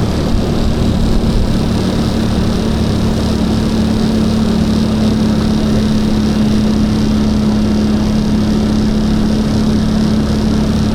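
Boat motor running steadily at speed, a constant hum over a wide rushing noise.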